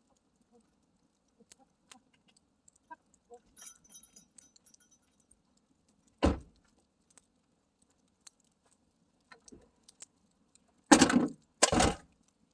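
Campfire crackling with faint scattered pops, broken by three short, louder handling noises: one about six seconds in and two close together just after eleven seconds.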